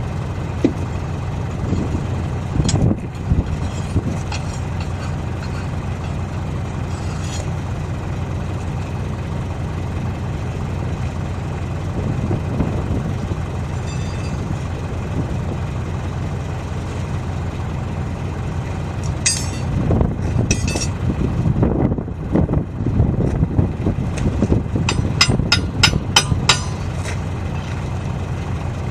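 Engine idling steadily, with scattered metal clinks and knocks from tyre-changing work on a wheel loader, and a quick run of sharp metallic clinks near the end.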